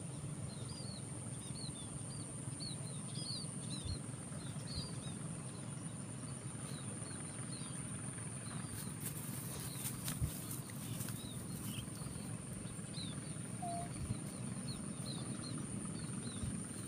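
A bird chirping again and again in short high chirps that come in loose runs, over a steady thin high whine and a low background rumble.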